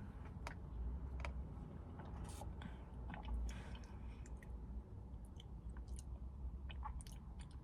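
A person sipping a drink and swallowing, with small scattered mouth and lip clicks over a faint low steady hum.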